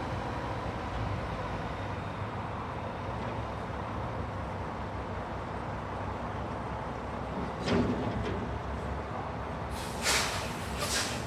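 Construction-site ambience: a steady low rumble of machinery with a clunk about eight seconds in, then two short, loud bursts of hiss near the end.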